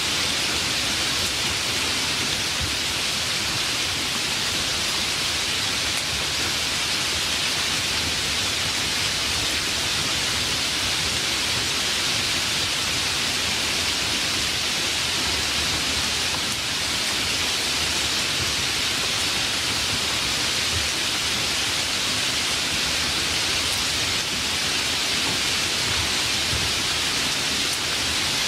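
Steady rain falling in a rainstorm, an even hiss that neither swells nor breaks.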